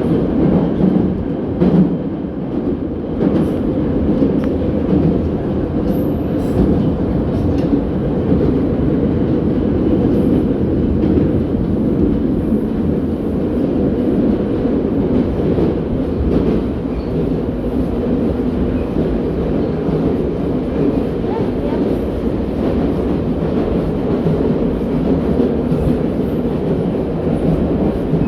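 Type 81-717.6 metro train running steadily between stations, heard from inside the car: a continuous low rumble of wheels and running gear, with a few light knocks in the first several seconds.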